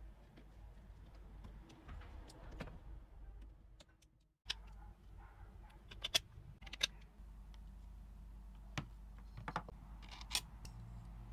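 Faint scattered clicks and light taps, a few at a time, over a low steady hum, with a brief cut to silence about four seconds in.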